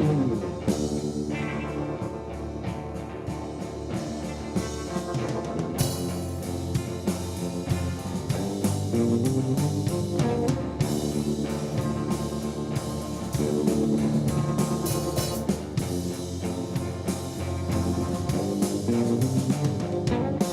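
Rock band playing: electric guitar over bass and drums, with the cymbals coming in louder about a third of the way through.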